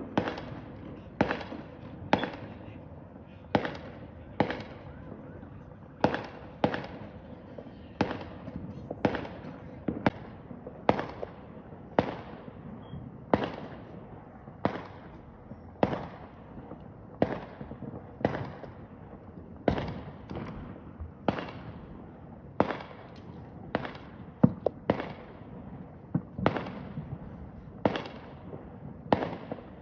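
Fireworks going off in a long, steady run of sharp bangs, a little more than one a second, each trailing off in an echo.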